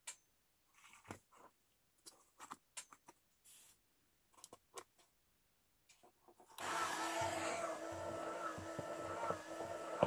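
Light clicks and taps of cardboard being handled, then about two-thirds of the way in a small electric motor starts and runs steadily with a humming whine, turning the drum of a homemade cardboard mini washing machine.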